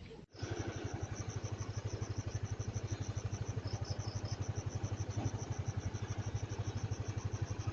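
Engine idling steadily, with an even, fast pulse. It starts just after a brief dropout at the very beginning.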